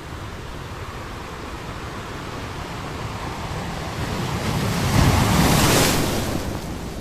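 Sea waves on a beach: a steady wash of surf that builds about four seconds in as a wave breaks and rushes in, loudest just before the end, then falls back.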